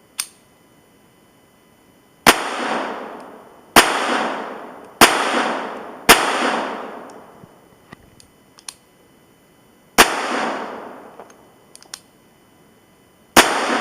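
Taurus PT-22 .22 LR semi-automatic pistol firing six shots at uneven intervals, four in quick succession and then two more spaced out, each shot trailing off in a long echo. A sharp click comes right at the start and a few light clicks fall between the shots.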